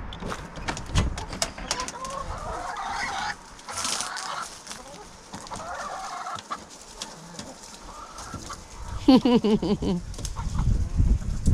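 Chickens clucking and calling as they are let out of their coop, with one louder, quavering call about nine seconds in.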